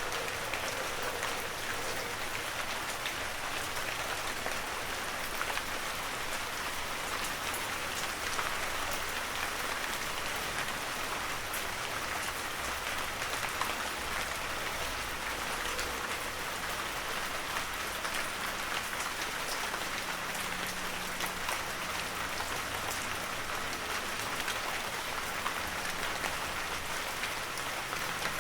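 Heavy rain falling steadily, a dense hiss of drops with many small individual drop ticks on leaves and ground.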